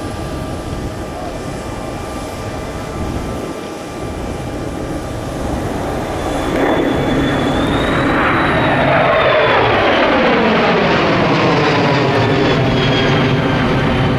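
Kawasaki C-2 transport's twin turbofan jet engines growing louder as the aircraft approaches. In the second half it passes by, its whine falling in pitch.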